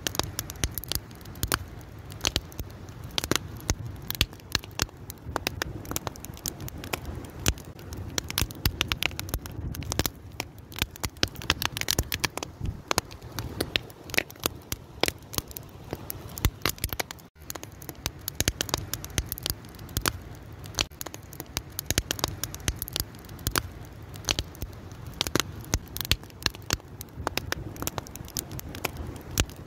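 Fire crackling steadily, with dense irregular pops and snaps over a low rumble; the sound drops out for an instant about seventeen seconds in.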